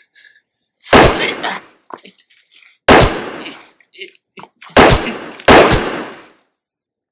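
Four handgun shots: one about a second in, another two seconds later, then two in quick succession near the end, each a sharp crack that dies away over about half a second.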